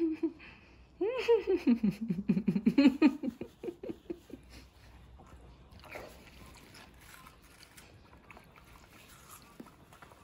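Watermelon being bitten and chewed, with a run of crunchy chewing clicks. A drawn-out voice sounds over the loudest chewing about a second in, then the chewing goes on more faintly, with one sharper bite about six seconds in.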